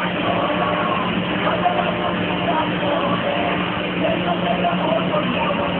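Large CNC router cutting veneered plywood dados with a 1/2-inch downcut bit: the spindle runs under load with a steady hum and hiss, and short wavering higher tones come and go as the cut goes on.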